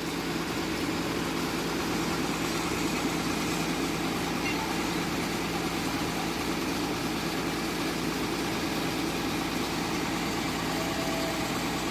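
Steady typhoon rain and gusting wind, an even hiss with a constant low hum beneath it.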